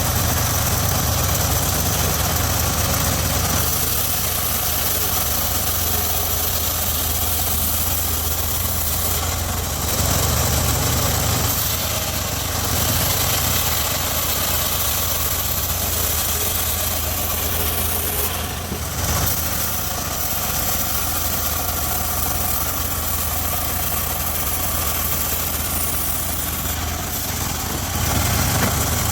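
Engine of a homemade circular sawmill running steadily as the saw is worked, with a constant high hiss above a low engine note. The level dips and rises slightly a few times.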